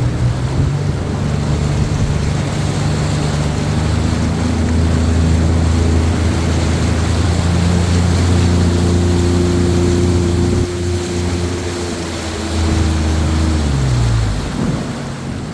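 Motorboat engines droning at steady revs over heavy wind and water rush. Near the end the drone slides down in pitch and fades as the throttle comes back.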